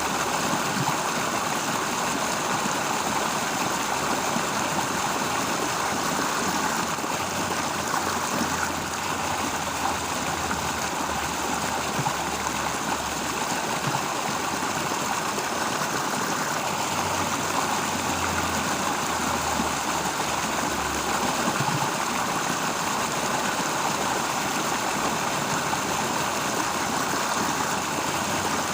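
Steady rush of flowing water, with a low rumble that comes and goes.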